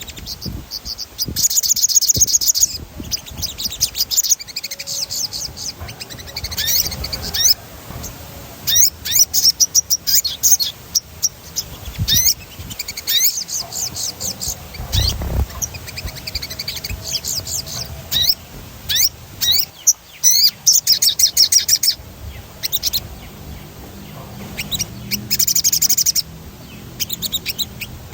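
Sogon bird singing: rapid high chirps, quick rising whistles and fast rolling trills in repeated bursts, the 'ngerol' song. A brief low rumble comes about halfway through.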